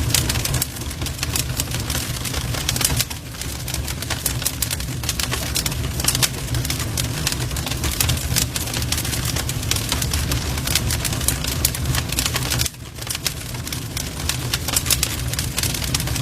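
Wood fire crackling and popping steadily, with a dense run of sharp snaps over the low rumble of the flames; the level dips briefly twice.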